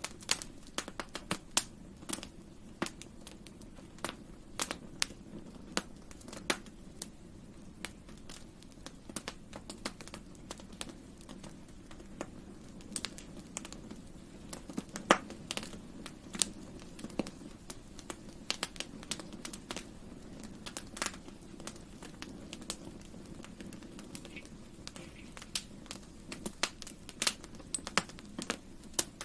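Wood campfire burning: irregular sharp crackles and pops over a steady low rumble of the flames. One pop about fifteen seconds in is the loudest.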